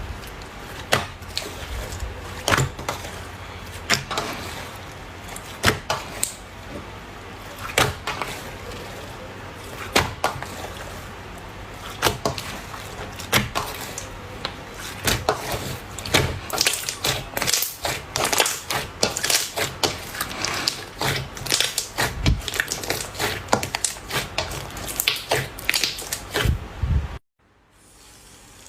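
Slime being pressed and squeezed by hand, giving sharp pops and clicks a second or two apart at first, then a dense run of crackling pops; the sound cuts off abruptly near the end.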